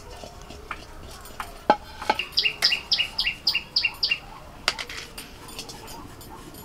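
A bird calling a quick run of about eight sharp, high repeated notes, about four a second, for a couple of seconds. Just before it come a few sharp knocks of metal pans being set down.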